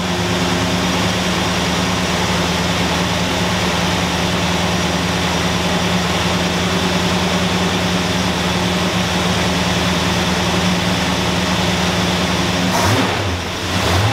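1969 Dodge Coronet Super Bee's 383 big-block V8 idling steadily, with a brief dip and change in pitch near the end.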